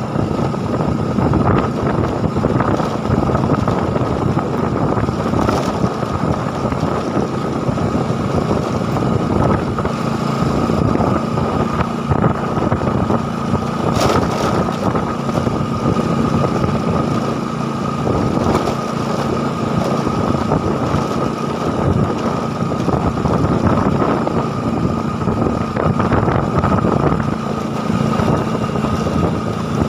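A small engine running steadily, with wind on the microphone.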